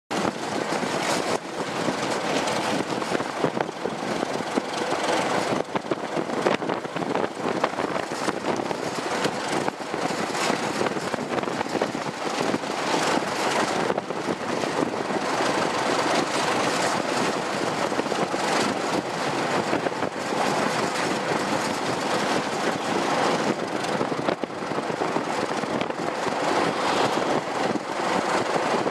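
A diesel train running steadily, with an even rushing noise.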